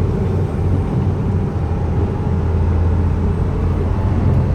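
Speedboat engine running steadily, a loud low hum under a rush of wind and water noise.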